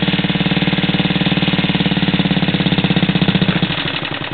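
Old Briggs & Stratton single-cylinder engine on a walk-behind garden tractor, running with a rapid steady pulse after a cold start without choke, then dying out about three and a half seconds in. The owner blames the stall on the choke being off.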